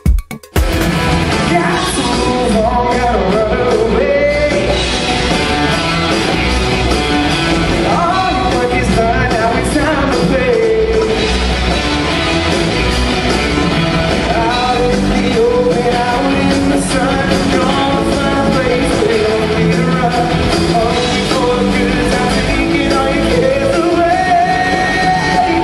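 A singer's voice carrying a melody over loud instrumental backing music, starting abruptly about half a second in and running on steadily.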